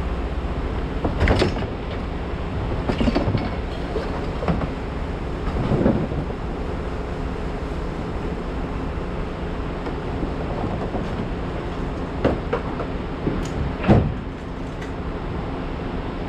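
A heavy engine running steadily, with irregular metallic clanks and bangs every few seconds; the loudest bang comes near the end.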